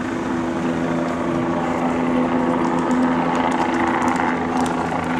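An engine running steadily with an even hum, growing a little louder in the middle.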